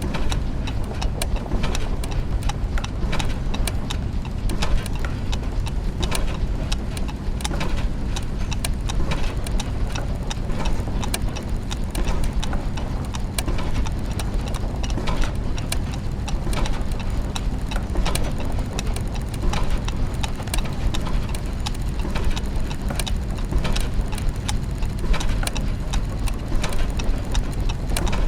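Clockwork machinery with gears turning: dense, irregular ticking and clicking from many mechanisms at once, over a steady low machine hum.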